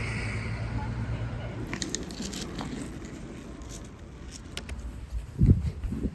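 Street sounds: a passing vehicle fading away, then a few sharp clicks and a heavier low thud near the end.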